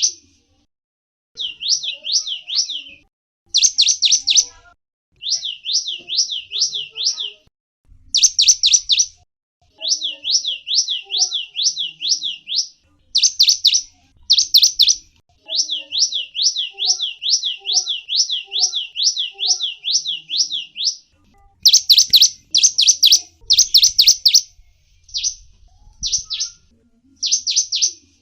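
Small songbird singing: phrases of rapid, high, down-slurred chirps, several notes a second, repeated with short pauses between them. Louder, sharper bursts of notes come in the last third.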